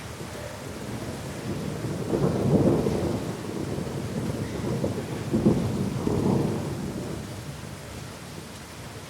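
Thunder rolling over steady heavy rain: a low rumble builds, swells twice in the middle, then fades away, with the rain hissing throughout.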